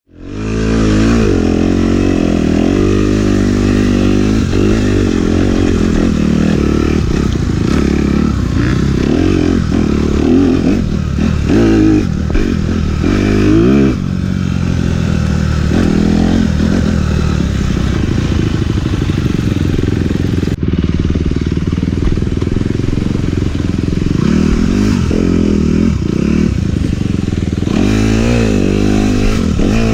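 Dirt bike engine under way, revving up and down repeatedly as the rider opens and closes the throttle and shifts gears, with rattling from the bike over rough ground.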